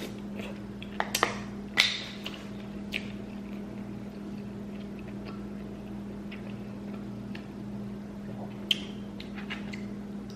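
Eating sounds from a seafood boil: a few sharp wet mouth clicks and smacks, mostly in the first two seconds and once more near the end, over a steady low hum.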